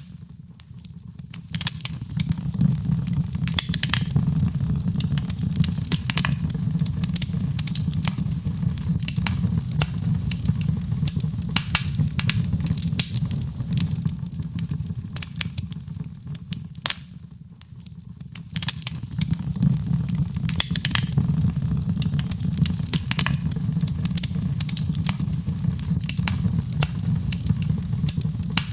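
Wood fire burning with frequent crackles and pops over a steady low rumble of the flames. The sound fades down briefly twice, just after the start and again about two-thirds of the way through, then returns.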